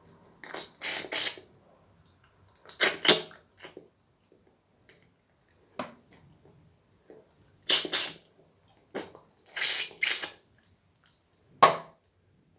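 Close-up mouth sounds of eating slimy okra soup with starch: short wet slurps and smacks, about eight in all, with brief quiet between them.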